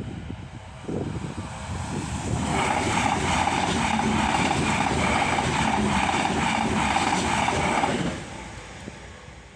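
A train passing over a level crossing: rumbling at first, then a loud steady run of noise with a high, steady two-tone whine for about five seconds, which drops away suddenly near the end as the train clears.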